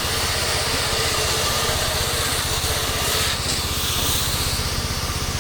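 Pressure-washing rig's gasoline engine running steadily with a fast even pulse, under the broad hiss of a spray wand putting a soap treatment on gutter edges.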